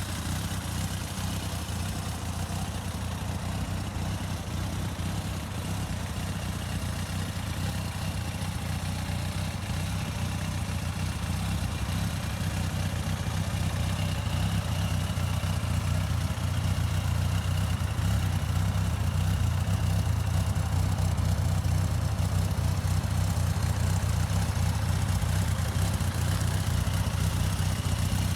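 1989 Suzuki GSX-R750 Slingshot's inline-four engine idling steadily, growing slightly louder partway through.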